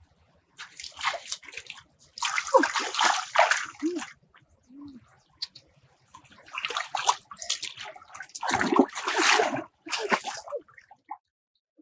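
Water sloshing and splashing in several irregular bursts, with short pauses between them.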